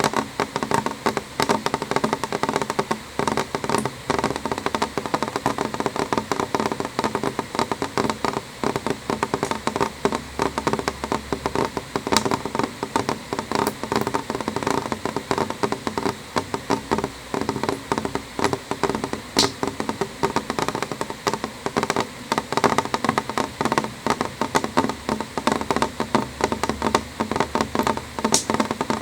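Rain falling on window glass: a dense, irregular run of drops tapping without a break, with now and then a sharper, brighter drop.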